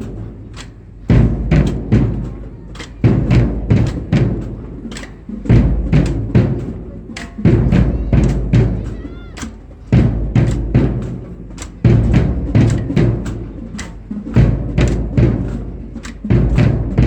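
Marching band drumline playing a cadence: crisp snare strikes over booming bass drums, in loud phrases that restart about every two seconds.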